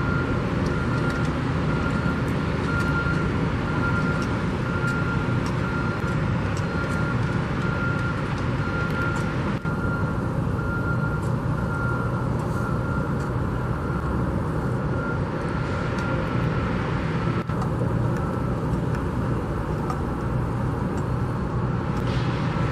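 Steady rumble of road traffic and heavy construction machinery, with a faint thin high whine through much of the first half.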